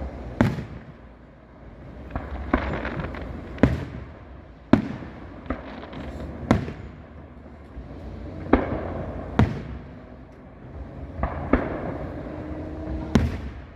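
Aerial fireworks bursting overhead: about ten loud booms at irregular intervals of roughly a second, several followed by a crackling shower.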